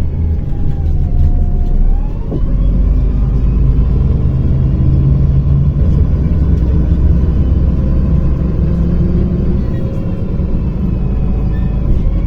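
MAZ-105 city bus running on the road, heard from inside: a steady low engine and road rumble. In the first two seconds a whine dips in pitch and then rises again.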